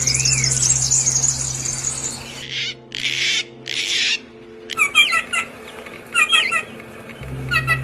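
Birds calling: a fast, high trill for about the first two seconds, then harsh, scratchy squawks, then a short chirping phrase repeated three times, about a second and a quarter apart.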